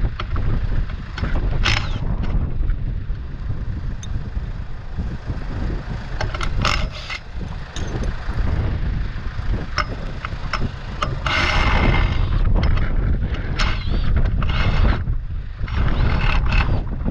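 Irregular knocks, clicks and short scraping bursts from work freeing a fence section, over a steady low rumble.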